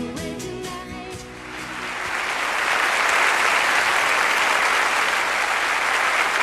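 A piece of music ends in the first second and a half, then audience applause swells and keeps going steadily.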